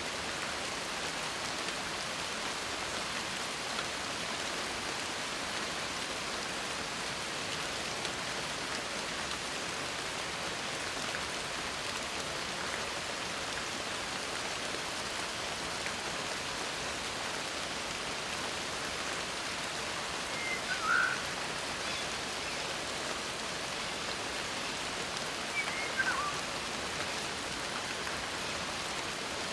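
Steady rain falling, an even hiss of many drops throughout. Two brief high chirps stand out about two-thirds of the way through and again near the end.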